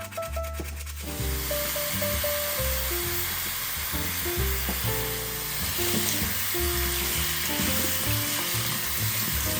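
Water running from a tap in a steady hiss, starting about a second in, over background music.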